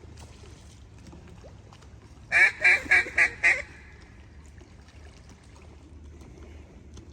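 A duck call blown to sound like a mallard hen: a run of five loud quacks about four a second, starting about two and a half seconds in.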